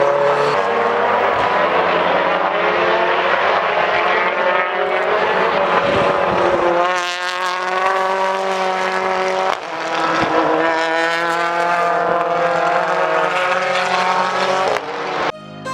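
British Touring Car Championship race cars running at speed on track, several engine notes overlapping and rising and falling as the cars pass and change gear.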